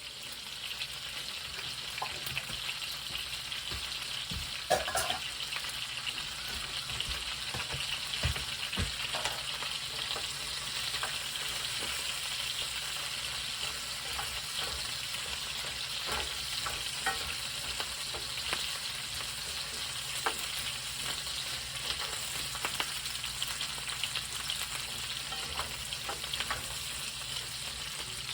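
Brussels sprouts with garlic and onion sizzling steadily in a frying pan, with scattered clicks and knocks of a utensil stirring them.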